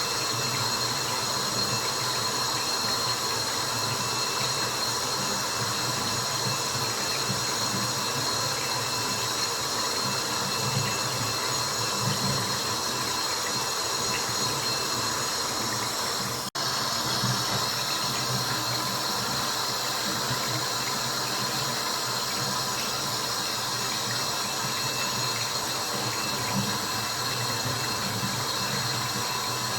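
Steady, continuous sound of water drops, used as white noise. It drops out for an instant about halfway through.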